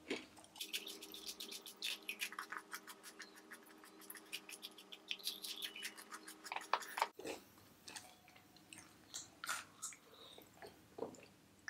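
Close-up chewing of a crisp waffle cone: dense, crackly crunching that stops abruptly about seven seconds in, followed by a few scattered quieter crunches and clicks.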